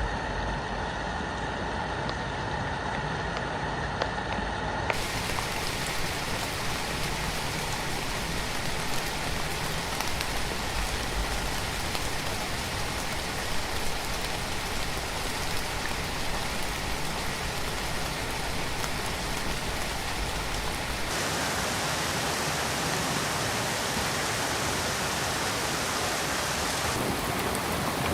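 Steady rain, an even hiss of drops. Its character shifts abruptly about five seconds in and again about two-thirds of the way through.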